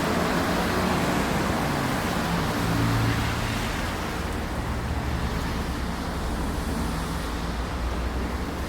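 Vehicle engine running steadily: a low drone with a rushing noise that eases off a little about four seconds in.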